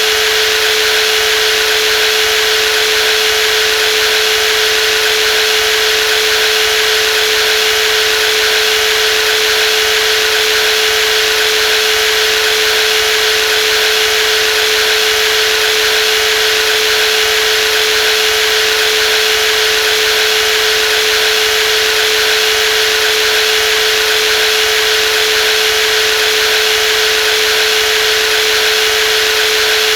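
Brushless jigsaw running steadily at constant speed, a high-pitched motor whine with one strong steady tone, without load changes.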